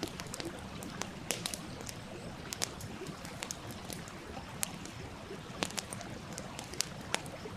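Wood fire crackling with sharp, irregular pops over the steady rush of a stream.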